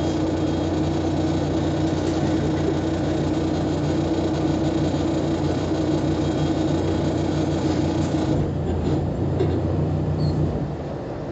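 Diesel engine of a Volkswagen Volksbus 18-280 OT LE city bus running steadily under load with a low, even hum. The sound changes about eight and a half seconds in and eases off a little near the end.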